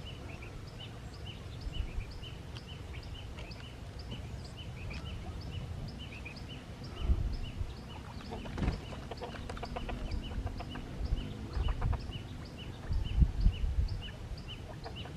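A bird calling in short high chirps, repeated evenly about twice a second, over low wind rumble, with a few dull thumps in the second half.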